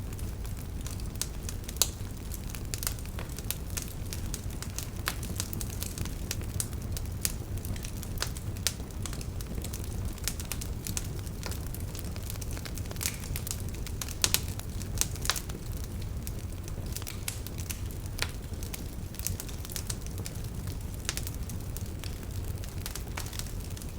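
Campfire crackling: irregular sharp pops and snaps of burning wood over a steady low rush, with no rhythm.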